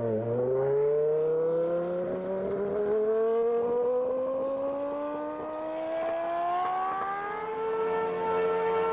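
Williams FW15C's Renault RS5 3.5-litre V10 engine running, its pitch climbing smoothly for about seven seconds and then holding steady at high revs.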